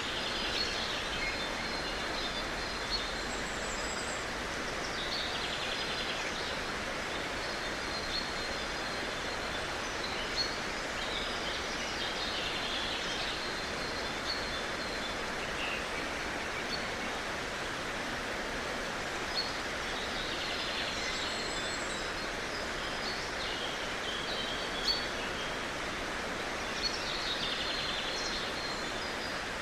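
Forest ambience: a steady rushing hiss with songbirds chirping and calling in short bursts every few seconds.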